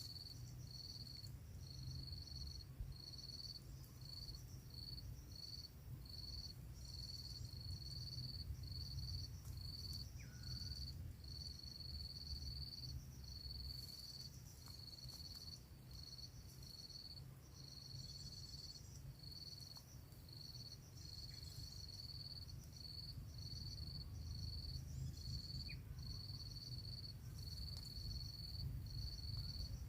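An insect chirping in a steady, high-pitched, pulsing trill, about two chirps a second, over a low steady rumble.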